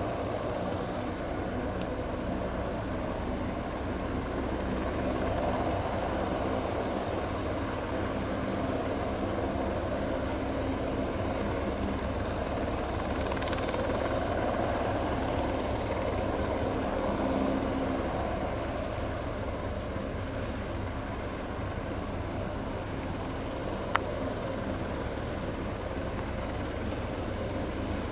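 Aerospatiale AS355F2 Ecureuil 2 helicopter running steadily, its rotor noise carrying a thin high turbine whine from the twin turboshaft engines. A single sharp click sounds near the end.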